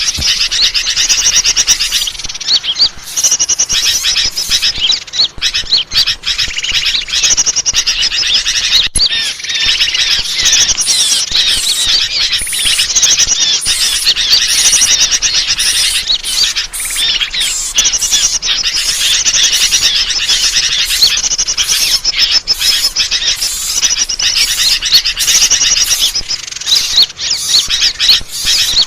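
Dense, unbroken high-pitched chirping and trilling of many small birds calling over one another, a bird-lure (pikat) call recording.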